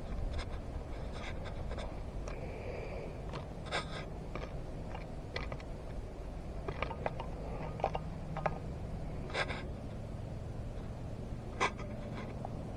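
Irregular light clicks and short scratchy scrapes of fishing tackle being handled, over a steady low rumble.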